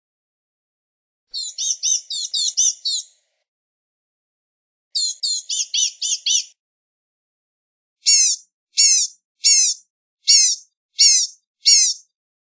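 Blue-gray gnatcatcher singing: two quick jumbled runs of high, thin notes, then six separate notes, each falling in pitch, spaced under a second apart.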